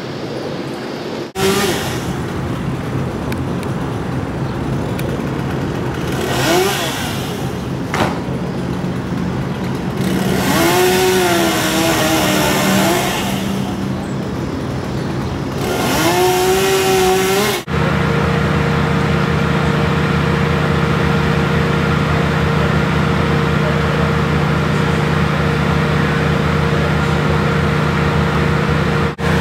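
Engine running, its pitch rising and falling in several revs through the middle, then holding a steady drone after an abrupt cut.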